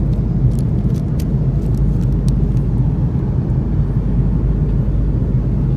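Steady low rumble of airliner cabin noise in flight, the engines and airflow heard from inside the cabin of an Airbus A330-300, with a few faint clicks in the first couple of seconds.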